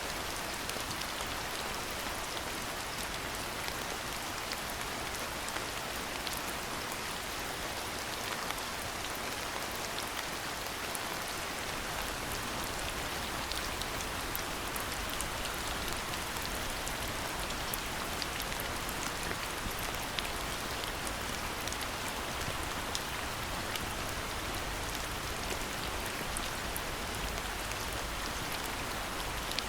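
Steady rain falling, an even hiss full of fine, closely spaced drop ticks. A low rumble joins underneath about twelve seconds in.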